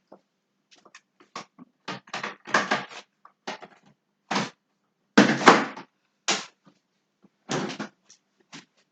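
Kitchen handling noises: a string of short clatters and knocks at irregular intervals as things are picked up and set down during food preparation, the loudest and longest a little past the middle.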